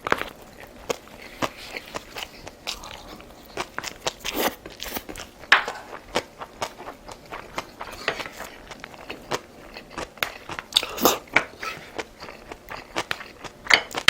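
A person chewing and biting food in irregular short crunches, some louder than the rest, as in a mukbang eating show.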